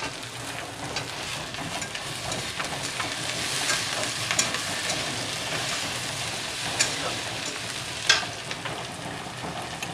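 Chopped onions and tomatoes sizzling as they fry in oil in a metal kadai, stirred with a metal spatula. A few sharp clicks sound as the spatula knocks against the pan.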